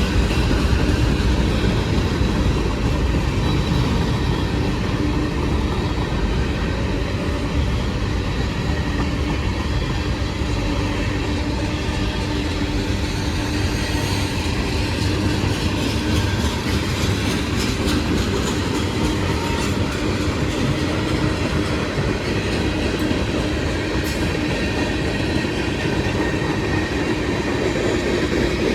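Long CSX freight train's cars rolling steadily past on the rails.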